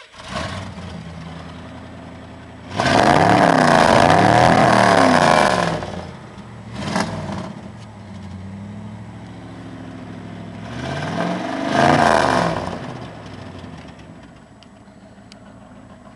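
1990 Ford F-150's 302 V8, cold, running through true dual straight pipes off the headers: idling, then revved and held for about three seconds, a quick blip, and a second rev a few seconds later before settling back to idle.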